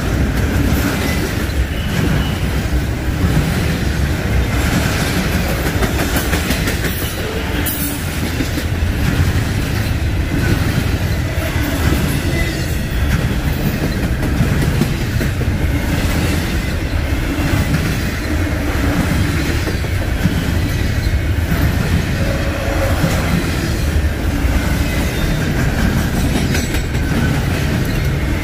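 Double-stack intermodal freight train's well cars rolling past close by, a steady rumble of steel wheels on rail with clicks over the rail joints.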